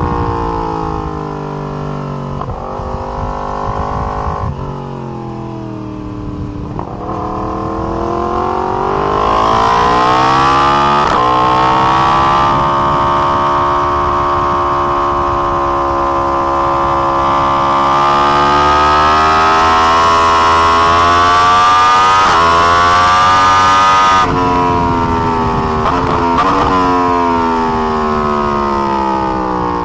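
2020 Yamaha R1's crossplane inline-four engine on track, pulling up through the gears with short breaks at each shift, then held at high revs for about ten seconds. About 24 seconds in the throttle shuts off suddenly, and a couple of quick revs follow as it drops down through the gears.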